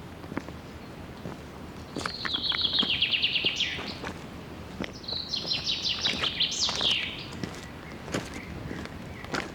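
A songbird singing two fast trilled songs, each about two seconds long and dropping in pitch toward its end. Faint footsteps on the trail tick beneath.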